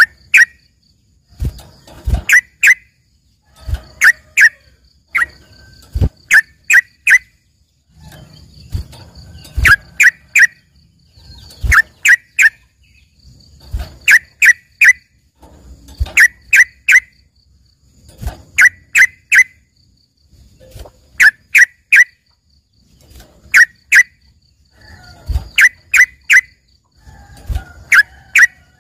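Yellow-vented bulbul (trucukan) singing: loud phrases of two to four sharp, short chirps, repeated about every two seconds, in a song with filled-in mimicry likened to a greater green leafbird (cucak ijo). A faint fast ticking runs underneath.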